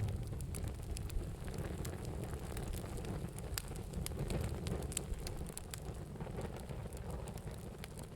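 Campfire crackling: irregular sharp pops and snaps over a low rumble of burning, slowly getting quieter.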